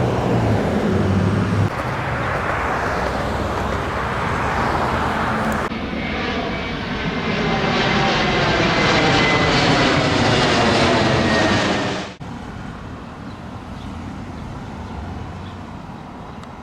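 Jet aircraft flying low overhead, a loud engine roar that swells, with its pitch sliding downward as it passes. The roar cuts off abruptly about twelve seconds in, leaving quieter background noise.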